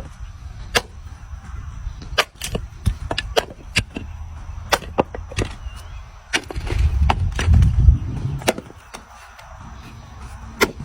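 Wood knocking and cracking in irregular sharp clacks, about two a second, as timber is worked or split. A louder low rumble comes about seven seconds in.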